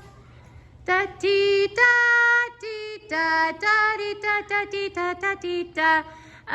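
A female voice singing a wordless 'da-dee-da' melody, starting about a second in as a quick run of short notes with a few longer held ones.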